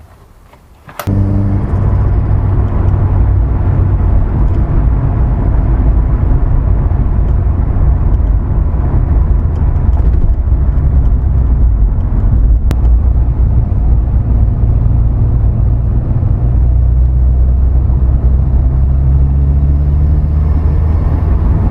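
Turbocharged 20-valve four-cylinder engine of a Mk2 Golf running loud and steady, starting abruptly about a second in, its revs creeping up near the end.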